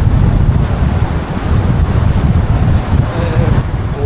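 Loud wind buffeting on a helmet-mounted camera microphone during a fast road-bike descent, a heavy rumbling rush.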